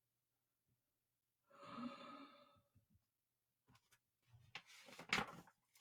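Near silence, broken by a faint, short sigh from a woman about two seconds in and a soft breath with small mouth clicks near the end.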